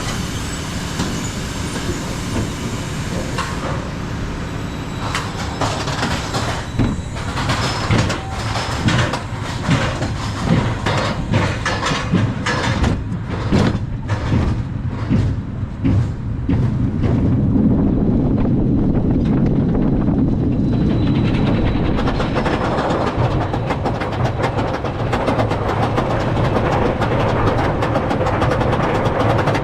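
Rocky Mountain Construction steel roller coaster train climbing its lift hill with a run of regular clacks, then going over the top and running fast along the track from about seventeen seconds in, a loud steady rush of wheels on rail.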